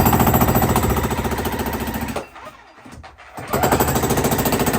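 Jackhammer breaking concrete, a fast even run of hammer strikes that stops about two seconds in and starts again about a second and a half later.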